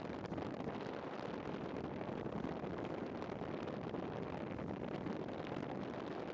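Steady rush of fast, heavy water from the rain-swollen Curug Cikuluwung waterfall and river in flood.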